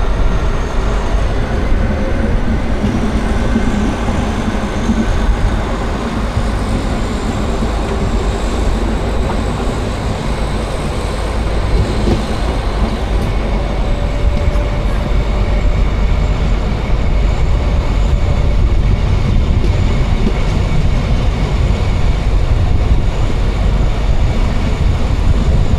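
Brohltalbahn metre-gauge train running along the line: a steady, loud rumble of wheels on rails, with faint thin whining tones that drift slowly in pitch.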